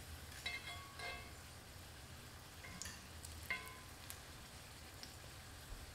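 Empanadas frying in shallow oil in a cast iron skillet, a low steady sizzle. A metal fork turning them clinks against the pan a few times, a cluster of light clinks about half a second to a second in and a sharper one about three and a half seconds in.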